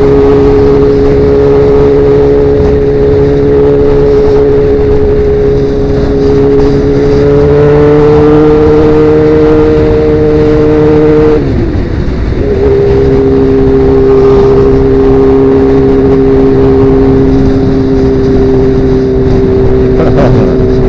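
Sportbike engine with a Danmoto XG-1 aftermarket exhaust, running steadily at highway cruise. Its note rises slowly, breaks off briefly about eleven seconds in, then settles slightly lower and holds steady.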